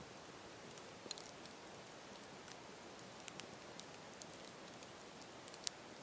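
Campfire crackling: a steady low hiss with scattered sharp pops and snaps from the burning wood, the loudest snap near the end.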